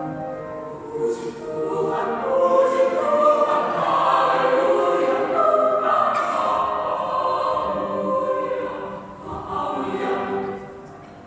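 Youth church choir singing a sacred choral piece in many parts, swelling louder about two seconds in and fading down near the end.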